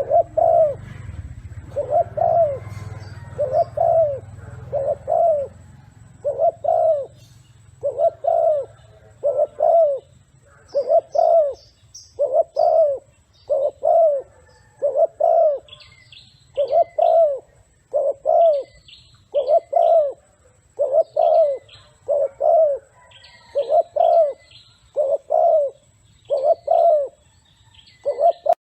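A cage bird calling in a steady series of short, low, rising-and-falling notes, a little over one a second. Fainter high chirps join in from about eleven seconds in.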